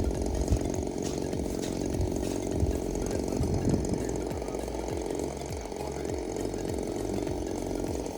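Small two-stroke gas engine of a 20cc RC airplane running steadily, with a buzzing, chainsaw-like note.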